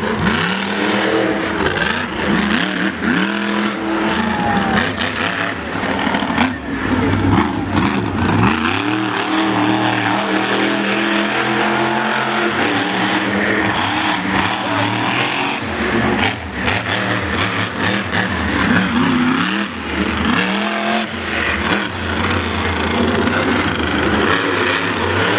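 Loud engines revving hard, their pitch sweeping up and then falling back again and again, over a steady din of running motors.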